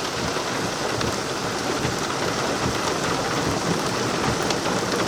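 Hail and heavy rain pelting a vehicle during a severe thunderstorm, heard from inside: a dense, steady patter with many sharp individual strikes.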